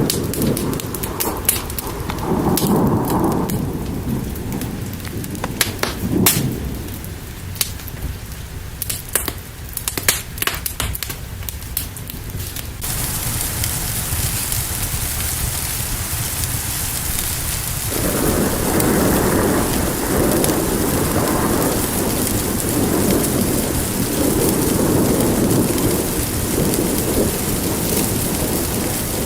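Rain and thunderstorm ambience. For the first half, sharp fire crackles pop over a low rumble. About halfway through, a steady hiss of heavy rain cuts in suddenly, and rolling thunder rumbles under it from about two-thirds of the way in.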